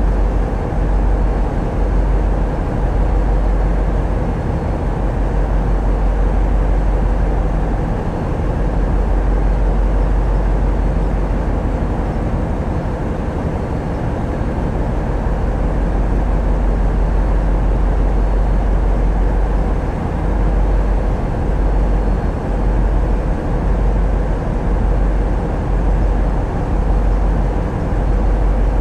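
Tugboat's diesel engines running steadily, a deep constant rumble with a steady hum above it, heard on board.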